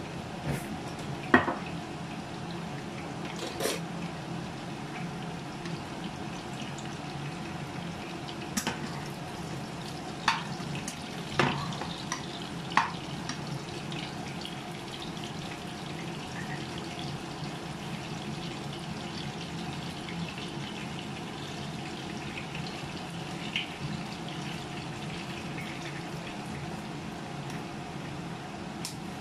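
Steady sizzle of food simmering and frying in pans on a stove, with several sharp clinks of metal utensils in the first half.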